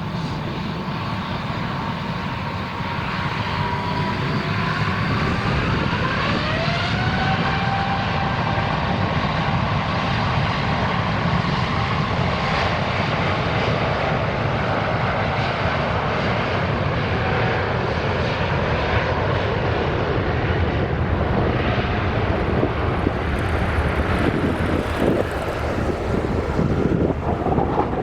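Airbus A350-900's Rolls-Royce Trent XWB turbofans under power for takeoff, a low rumble with an engine whine that rises in pitch and then holds steady. Gusty wind buffets the microphone near the end.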